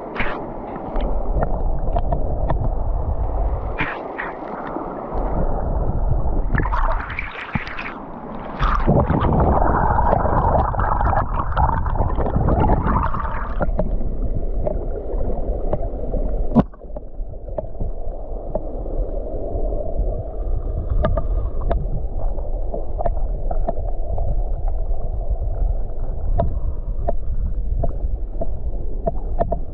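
Flowing river water heard through a GoPro held underwater: a muffled, gurgling rush with scattered clicks and knocks. Brighter splashing noise from about seven to thirteen seconds in, duller again after.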